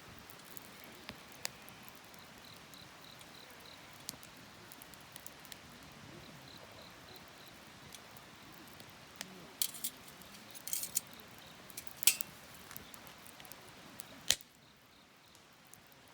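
Wood fire crackling with scattered sharp pops, the loudest few in the second half, while an insect, likely a cricket, chirps in short high pulse trains. The background falls away suddenly near the end.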